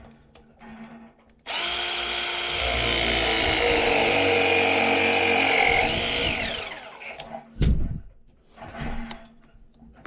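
Battery-powered copper press tool running through a press cycle: a steady motor whine that sags slightly in pitch as the jaws close on the fitting, then jumps and winds down as the cycle finishes. A single thump follows.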